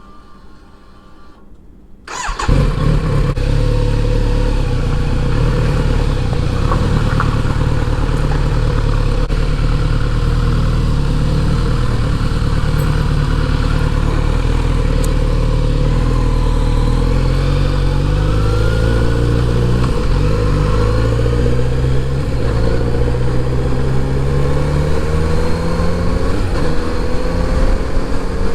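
Kawasaki Z900RS inline-four engine coming in suddenly about two seconds in and running steadily. From about halfway through, its pitch repeatedly rises and drops as the bike accelerates through the gears.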